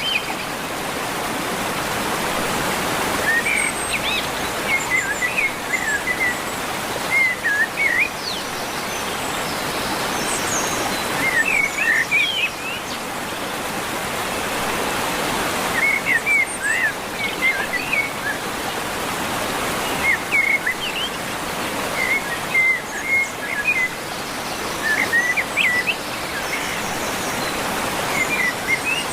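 Small birds chirping in short, quick phrases every few seconds over a steady rush of running water.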